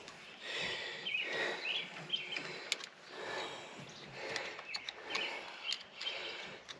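Birds chirping in short calls at intervals, with a few sharp light clicks mixed in.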